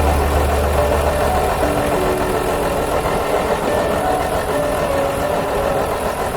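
Diesel regional train's engine running, a deep rumble that drops away about two seconds in, leaving a steadier mechanical running sound.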